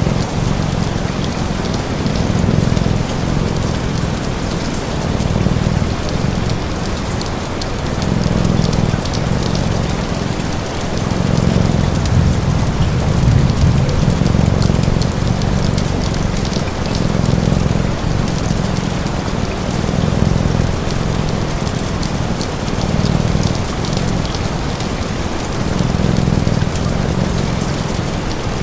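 Steady rain falling, with a cat's low purr swelling and fading about every three seconds, and light crackling from a fire.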